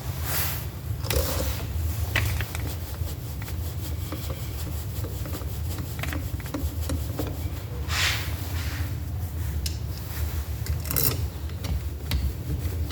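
Small nuts being fitted and tightened to mount the ignition coil on a Toyota 4AFE distributor, heard as scattered scraping, rubbing and light clicks of metal parts.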